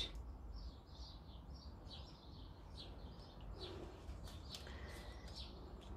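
Faint small-bird chirping in the background: a run of short, high chirps, several a second, with a few faint clicks and a low steady hum underneath.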